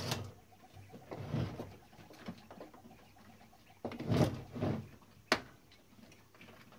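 Clicks, knocks and brief scrapes of tools and metal parts as a Klein Adler 2 typewriter is taken apart, with a louder cluster of knocks about four seconds in and a single sharp click just after five seconds.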